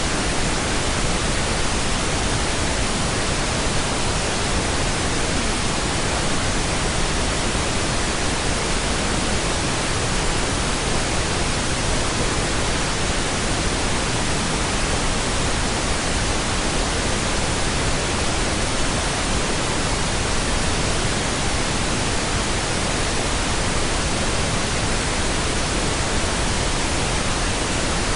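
Steady pink noise: an even, unchanging hiss across the whole range, without breaks.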